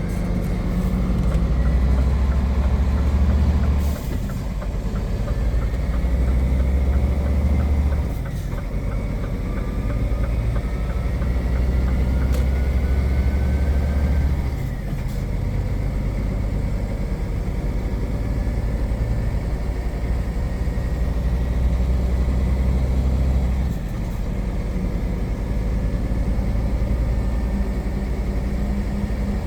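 Heavy truck's diesel engine heard from the cab, pulling under load with a deep drone. The drone dips briefly four times, at longer and longer spacing, as the truck shifts up through its gears.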